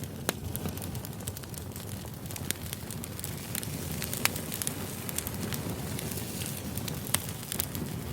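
Wood campfire crackling, with scattered sharp pops, a few louder than the rest, over a low steady rumble.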